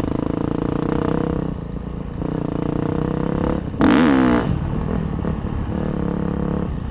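KTM dirt bike engine running under way. It eases off briefly about two seconds in, then gives a sharp rev with rising pitch a little before halfway, the loudest part, before settling back to steady running.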